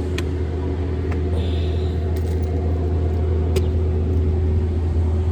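Steady low engine rumble with a constant hum, like an idling motor vehicle, with a few faint clicks over it.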